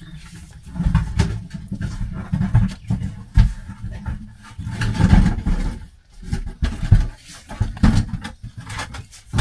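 A load being hauled up a cave pit on a rope through a newly rigged pulley: irregular low rumbling and scraping in uneven bursts, with a few sharp knocks.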